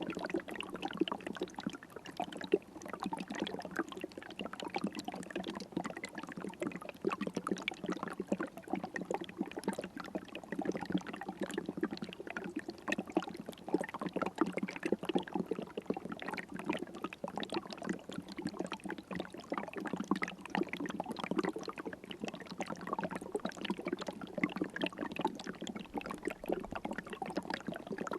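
River water flowing: a steady, unbroken babble of many small splashes and gurgles.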